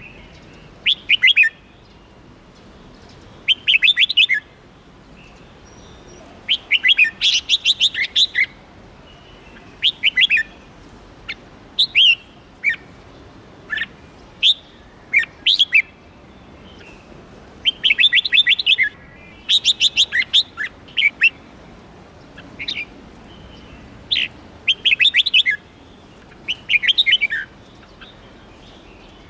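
A songbird calling in short bursts of rapid, sharp chirping notes, one burst every second or two, with a faint steady hiss behind it.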